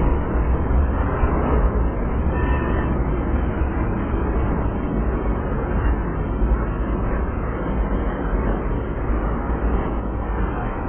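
Canadian Pacific freight train's tank cars and boxcars rolling past close by: a steady, loud rumble of steel wheels on the rails.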